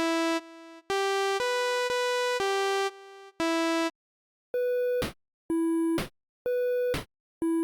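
8-bit chiptune synthesizer tones: a short melody of half-second notes, then four evenly spaced beeps about a second apart, alternating between a higher and a lower pitch.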